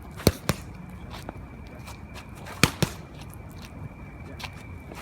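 Punches landing on boxing focus mitts: two quick pairs of sharp slaps, the first pair just after the start and the second a little past halfway.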